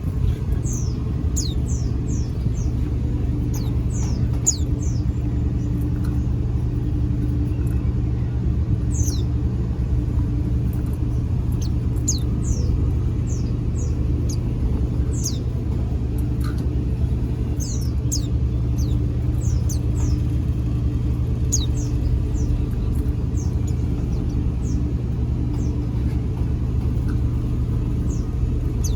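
A steady low rumble with a faint hum runs underneath many short, thin, high-pitched chirps from white-eyes (pleci). Each chirp slides downward, and they come scattered, sometimes several in quick succession.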